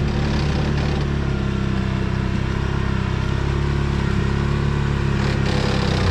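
ATV engine held at steady high revs under load, then the throttle drops off sharply at the end.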